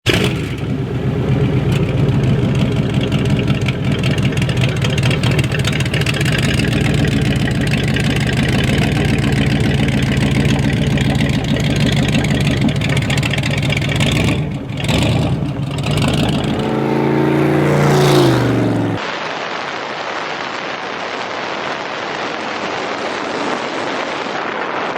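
Cadillac engine of a 1930 rat rod running, with a revving climb in pitch after about 16 seconds. About 19 seconds in the sound cuts to a steady rushing of wind and road noise.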